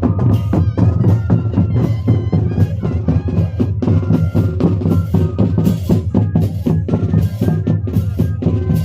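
Moseñada music: a melody over fast, steady drumming with a deep bass drum.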